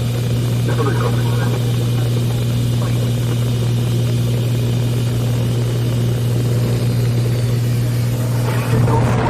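Steady low drone of a propeller aircraft's engine, unchanging in pitch, with a voice briefly heard near the end.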